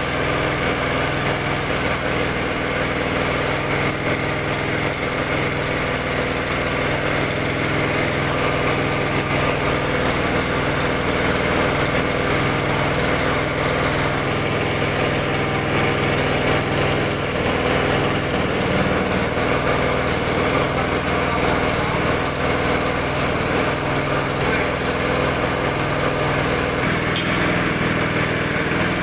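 Small engine running steadily at a constant speed, driving the drilling rig for a borehole well.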